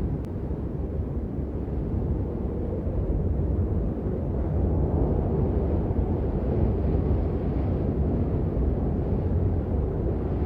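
Steady rain, a dark, muffled wash of noise heavy in the low end, with little high hiss.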